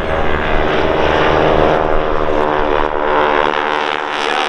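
Radial engine of a Boeing Stearman biplane running at display power as it flies by, its note bending in pitch and growing brighter toward the end.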